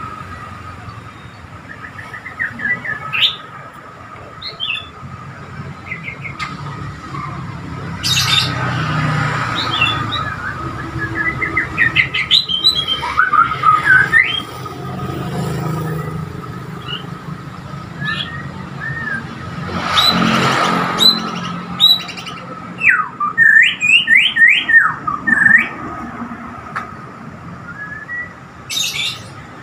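White-rumped shama (Borneo murai) singing bursts of short, varied whistled phrases over road traffic, with vehicles passing about 8 and 20 seconds in.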